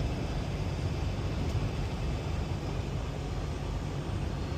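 Semi truck heard from inside the cab while driving: a steady low engine drone under an even hiss of tyres on a rain-soaked road.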